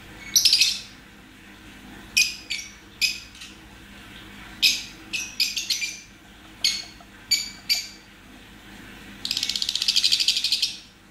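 Lovebirds calling: a string of short, sharp, high-pitched chirps at irregular intervals, then a rapid chattering run of calls lasting about a second and a half near the end.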